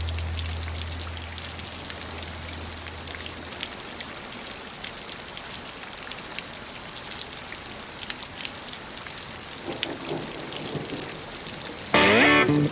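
Steady rain falling, an even hiss full of tiny drop clicks. A low note from the end of a song fades away in the first few seconds, and a blues song with guitar starts loudly near the end.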